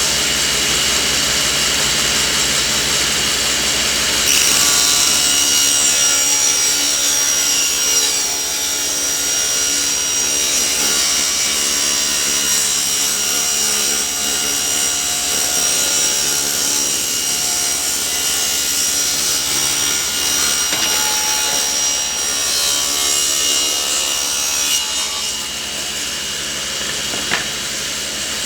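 Table saw ripping a board. The saw runs steadily, the blade cuts wood from about 4 s in until about 25 s with a high whine, then the blade spins free.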